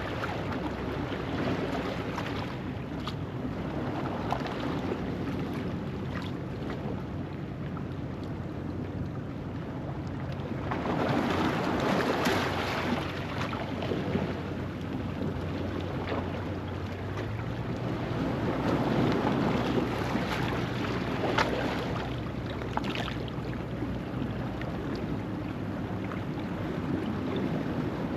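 Ocean waves washing over a rocky shoreline at low tide, a continuous surf with two louder surges, about 11 seconds in and again around 19 seconds, and a few small splashes. A faint steady low hum runs underneath.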